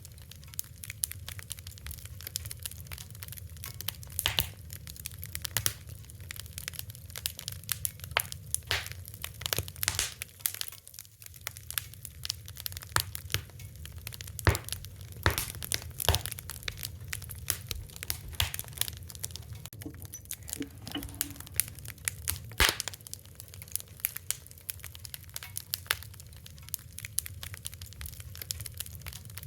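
Wood fire crackling: irregular sharp pops and snaps over a steady low rush of flame.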